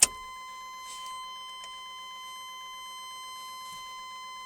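A click as the ignition key turns to on, then a truck's dashboard warning tone sounding steadily at one pitch, with the engine not yet running.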